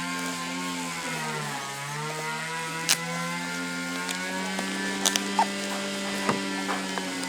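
Small electric power-tool motor running with a steady hum. About a second in, its pitch sags as it slows under load, then climbs back. A few sharp clicks come near the middle.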